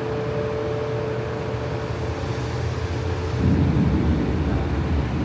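Steady low rumble of a motor vehicle, with a faint steady hum that fades out about three seconds in, the rumble growing louder for a moment about three and a half seconds in.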